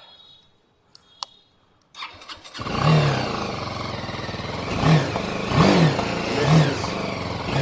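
BMW G 310 GS's 313 cc liquid-cooled single-cylinder engine started on the electric starter about two seconds in, catching almost at once. It then idles, revved up and back down four times. Two faint clicks come just before the start.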